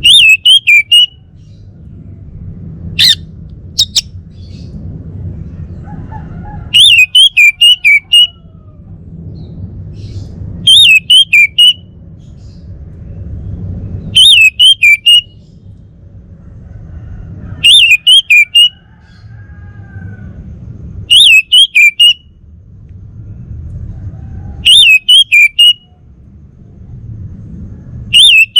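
Male orange-headed thrush singing: short phrases of four or five quick, bending whistled notes, repeated about every three and a half seconds, eight times. Two sharp clicks come about three and four seconds in, and a low rumble fills the gaps between phrases.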